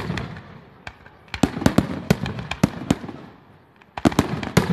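Aerial firework shells bursting: a single bang just under a second in, a quick run of bangs and crackles a second and a half in, and another run near the end, each fading into a rolling echo.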